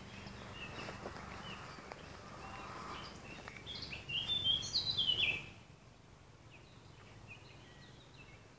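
A songbird singing: a quick run of short, high chirping notes, loudest around the middle, then fainter chirps. Footsteps and rustling on the forest path go along underneath in the first half and stop a little past the middle.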